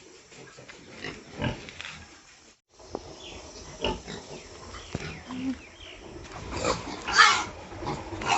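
Pigs grunting and squealing as they bite at each other, with a loud, harsh squeal about seven seconds in.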